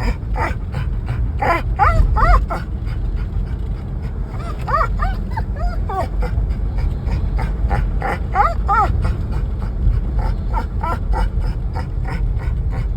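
Dog whining and yipping in excitement, in short rising-and-falling cries that come in clusters every few seconds, over a steady low rumble of a moving car.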